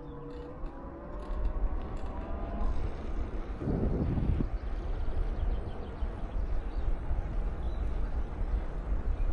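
Steady low rumble and rushing noise from riding a bicycle, with wind on the microphone. A pitched hum sounds through the first couple of seconds, and a louder rumble swells briefly about four seconds in.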